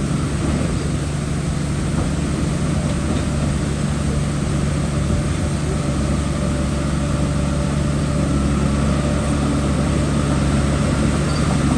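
Heavy diesel engine of construction machinery running steadily at an even speed, rising slightly in level near the end.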